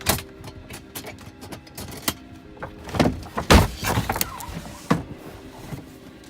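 Pillows and bedding being handled in a truck's sleeper berth: a run of irregular knocks and rustles, the loudest thump about three and a half seconds in.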